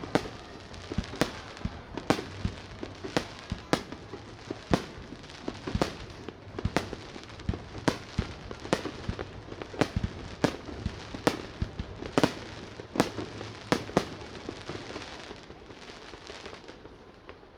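Fireworks display: shells bursting in quick succession, sharp bangs roughly one a second over a continuous crackle, thinning out over the last few seconds.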